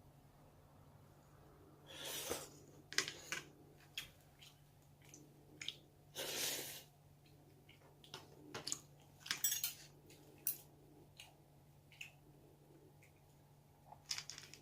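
Spoon and chopsticks clicking and tapping against bowls and dishes as someone eats a home meal. There are a dozen or so sharp clinks, and two longer, noisier half-second sounds about two and six seconds in.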